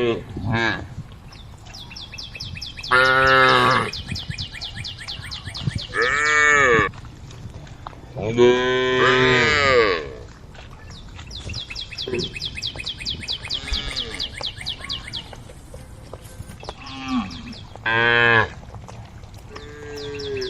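Cows mooing on and off: about five separate calls, the longest near the middle, with gaps between them.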